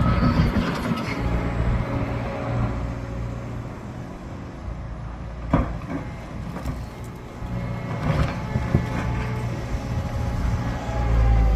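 A large diesel engine running steadily, with a few sharp knocks about five and a half seconds in and again around eight seconds in, and the engine growing louder near the end.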